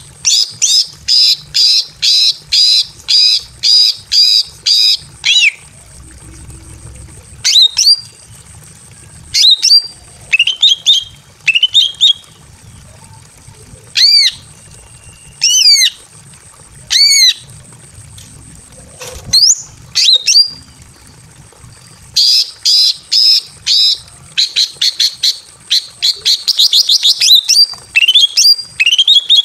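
Female green leafbird (cucak ijo) calling in breeding condition to draw a male: a fast run of about ten loud, sweeping notes, then single sharp calls spaced a second or two apart, then another run that speeds up near the end.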